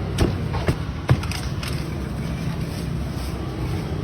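A pestle pounding crispy fried chicken into sambal in a stone mortar: three sharp knocks about half a second apart in the first second, then they stop. A steady low background rumble continues underneath.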